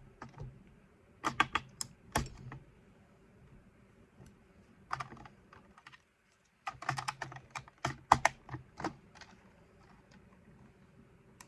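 AA batteries being pressed into the plastic battery compartment of an RC excavator's remote control: clusters of sharp plastic clicks and rattles, in three bursts with pauses between.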